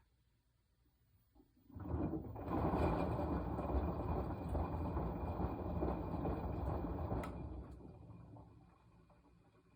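Washing machine drum turning in its wash cycle: a rush of noise starts about two seconds in, runs steadily for about five seconds, then fades as the drum slows to a stop.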